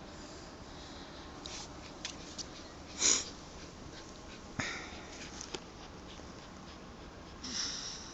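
A Labrador retriever sniffing: a handful of short, breathy sniffs spread over several seconds, the loudest about three seconds in.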